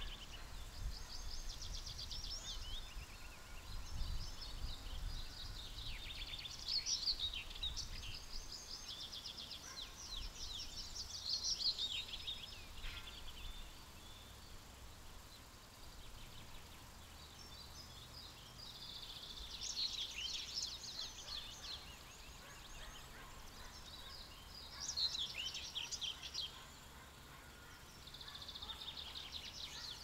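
Songbirds singing in short, repeated phrases of fast, high trills, with pauses between them, over a low background rumble that is stronger in the first half.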